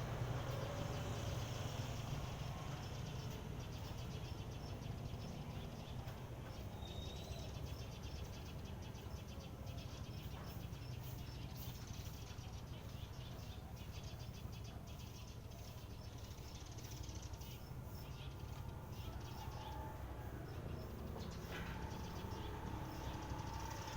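Birds feeding at a rooftop feeding spot: wing flutters, faint ticking and a few short chirps over a steady low background rumble.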